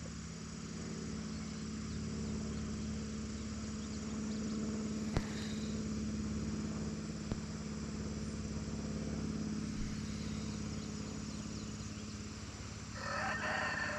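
Steady low mechanical hum of a running engine, with a sharp click about five seconds in and a short pitched call near the end.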